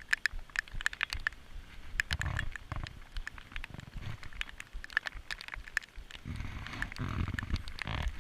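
Raindrops striking a chest-mounted GoPro's housing: an irregular patter of sharp ticks, several a second, with low rumbles of movement against the microphone in two stretches.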